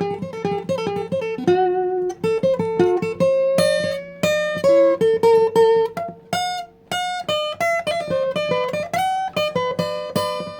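Acoustic guitar music: a picked melody of single notes over a steady low drone.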